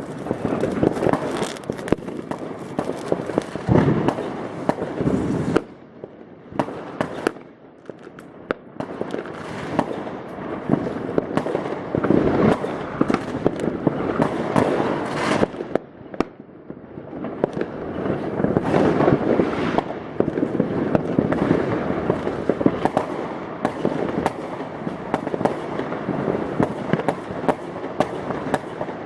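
New Year's Eve fireworks going off over the neighbourhood: a dense, continuous barrage of bangs and crackling firecrackers, with brief lulls about six seconds in and again around sixteen seconds.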